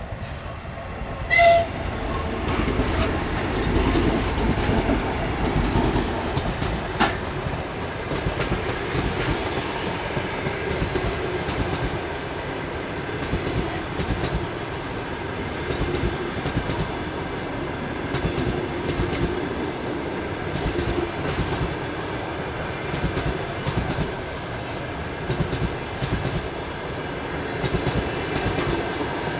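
Suburban passenger train hauled by a 2TE116 twin-section diesel locomotive, running past with a steady rumble and the clickety-clack of wheels over rail joints. A brief loud tone sounds about a second and a half in.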